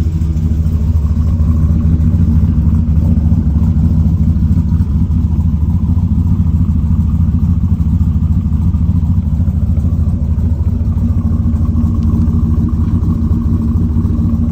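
Cammed twin-turbo LS V8 idling steadily while warming up after a below-freezing cold start. The owner hears the two wastegates leaking a little at idle.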